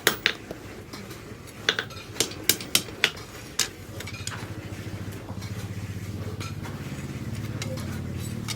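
Hammer blows on steel as the rebar is hand-forged into a sickle: about eight sharp, irregularly spaced metallic strikes in the first three and a half seconds. A low, steady motor-like hum then sets in and slowly grows louder.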